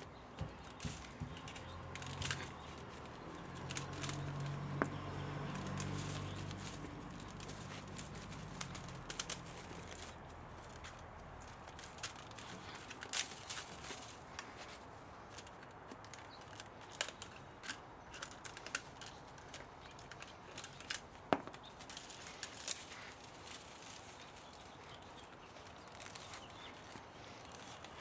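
Irregular light clicks, taps and knocks of metal parts and tools being handled while an old spa motor is taken apart for scrap. A low hum swells and fades during the first third.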